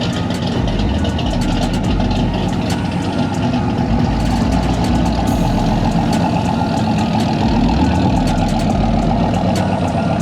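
A pickup truck's engine idling steadily.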